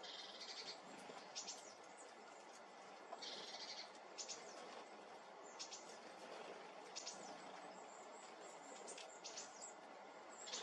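Faint woodland birdsong: short high-pitched chirps and brief rapid trills, one every second or so, over a soft steady background hiss.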